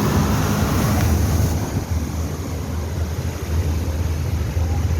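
Wind buffeting the microphone over the steady low rumble of road traffic.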